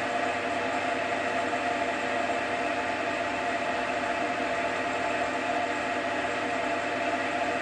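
JFMT metal lathe running steadily under power, its gear train giving a constant whine of several steady tones over a mechanical hum, with the lead screw driving the carriage for metric thread cutting.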